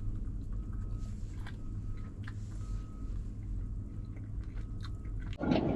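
A person chewing and biting food, with small mouth and food clicks over a steady low hum. Near the end a much louder rushing noise cuts in.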